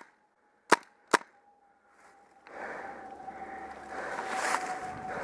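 An airsoft rifle fires three sharp single shots in the first second or so. From about halfway through comes a steady rustle of movement, which grows louder toward the end.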